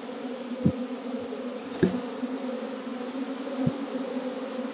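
A honeybee swarm buzzing in a steady, dense hum, with a few short dull thumps from handling, the loudest under a second in and just under two seconds in.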